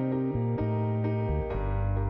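Background music: gentle new-age keyboard, held chords changing about every half second.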